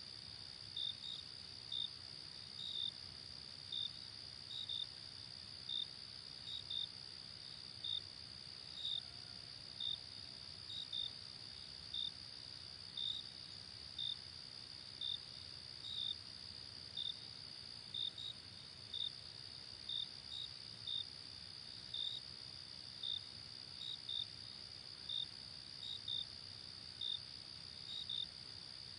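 Night insects chirping: a steady high-pitched trill with short chirps about once a second, often in pairs.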